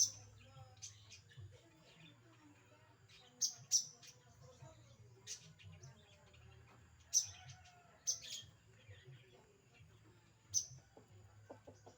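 A bird giving about nine short, sharp, high chirps, spaced irregularly a second or more apart, rather than a continuous song.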